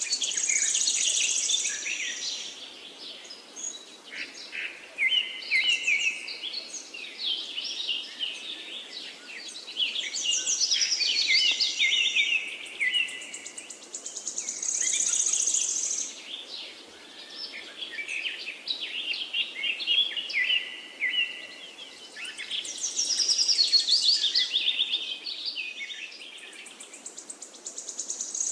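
Songbirds singing, with rapid trills and chirps that swell into louder phrases every few seconds.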